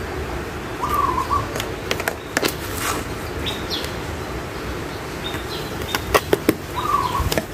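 Birds calling: a short call heard twice, about six seconds apart, and a few high chirps. Between them come sharp clicks and taps of a small garden tool working soil in a flower pot, over a steady low background hum.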